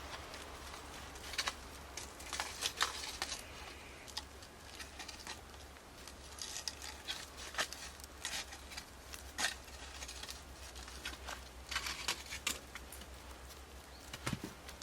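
Wood fire crackling in a fire pit, with irregular sharp pops and short hissing bursts.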